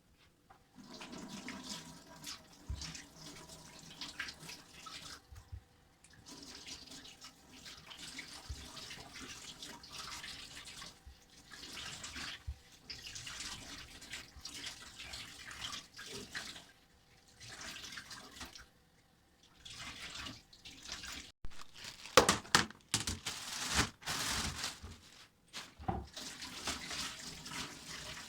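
Tap water running into a sink in stretches, stopping and starting several times. A few sharper knocks come about two-thirds of the way in.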